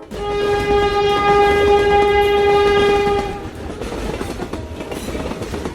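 A train horn sounds one long steady note for about three and a half seconds over the rumbling run of a train on the rails. After the horn stops, the train's rumble continues alone.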